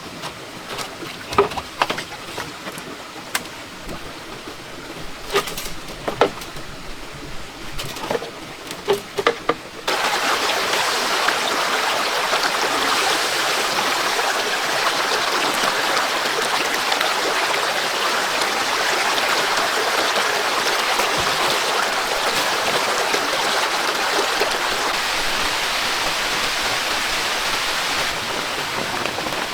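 Scattered light knocks and taps over a quiet background, then about ten seconds in a heavy, steady downpour of rain starts abruptly and keeps on.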